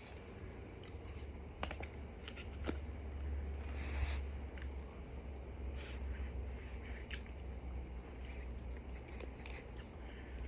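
Close-up chewing of starch: scattered soft crunches and clicks with little squeak, over a steady low hum.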